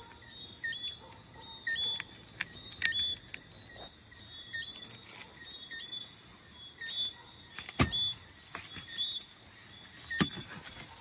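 Night chorus of small calling animals: a short two-note whistled chirp, low then high, repeats about once a second over a steady high-pitched buzz. Three sharp knocks cut through, about 3 s in, near 8 s (the loudest) and near 10 s.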